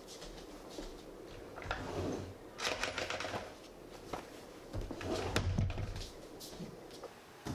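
Clothes being rummaged from a wooden drawer: fabric rustling with scattered knocks and clicks, loudest about two and a half seconds in and again around five seconds in.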